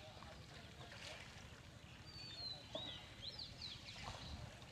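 A bird calling: a high falling whistle about two seconds in, then a quick run of short curved notes, over faint low outdoor background noise.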